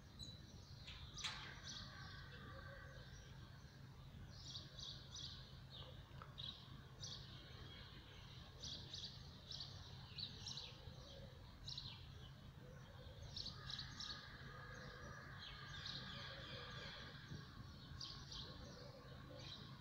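Faint chirping of small birds, many short high calls repeated throughout, over a steady low hum.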